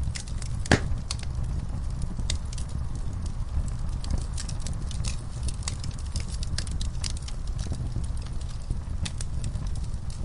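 Wood fire burning in a fireplace: a steady low rumble of flames with frequent sharp crackles and pops, one louder pop about a second in.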